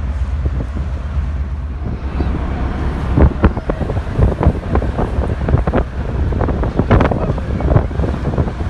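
Wind buffeting the microphone aboard a ferry, over a steady low rumble; the gusts turn stronger and choppier about three seconds in.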